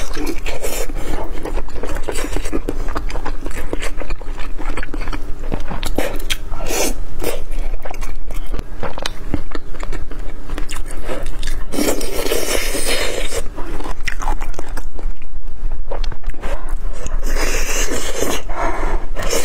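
Close-miked biting and chewing of red-braised pork belly and chicken wings, with many small wet mouth clicks.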